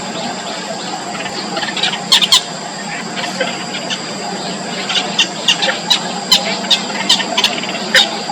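Yellow bittern chicks in the nest giving short, shrill squealing calls: two loud ones about two seconds in, then a rapid series of about a dozen from about five seconds in, over a steady background hum.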